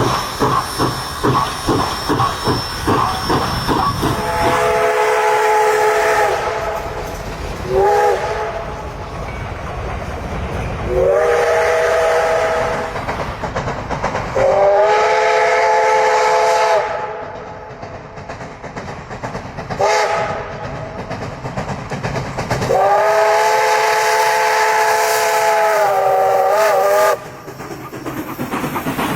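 Steam locomotive working, its exhaust chuffing in quick even beats, then sounding a chime whistle of several notes at once in six blasts, four long and two short, the last one wavering as it ends. Steam hiss and running noise carry on between the blasts.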